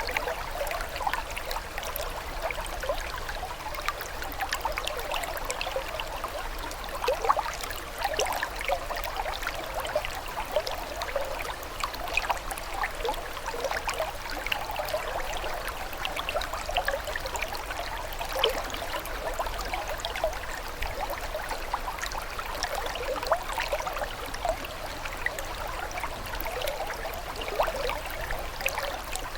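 Running water trickling steadily, with many small splashes and bubbles.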